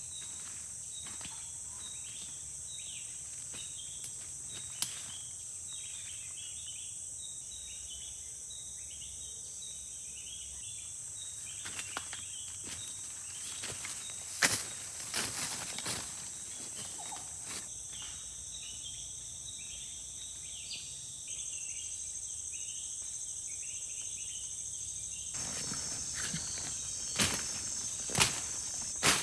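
Forest ambience: insects droning in steady high tones, with small chirping calls over them. A few sharp knocks and rustles come about halfway through and again near the end.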